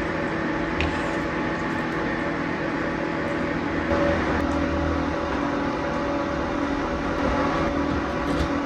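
Steady machine hum with several held tones over a constant rushing noise.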